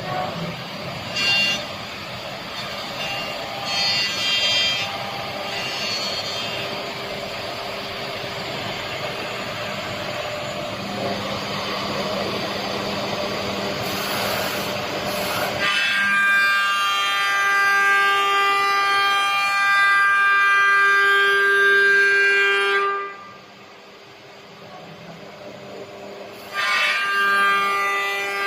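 CNC router at work: a noisy cutting sound for the first half, then a steady, high-pitched whine with several tones at once. The whine drops away sharply for about three seconds near the end, then returns.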